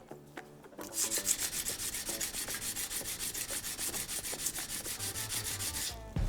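Steel blade of a honyaki fugu-hiki knife being stroked back and forth on a whetstone in quick, even strokes. The scraping starts about a second in and stops shortly before the end.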